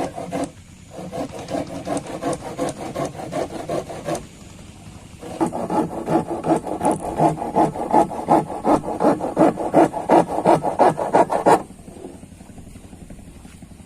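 A hand tool working wood with quick back-and-forth rasping strokes, about three a second. It comes in two runs with a short pause about four to five seconds in, and the second run is louder.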